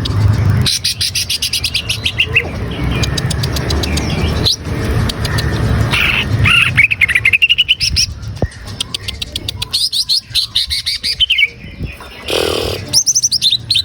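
Cucak ijo (green leafbird) singing hard: rapid chattering trills and quick falling runs of high notes, one phrase after another. This is a lure song of the kind played to set kept songbirds singing. A steady low rumble runs underneath.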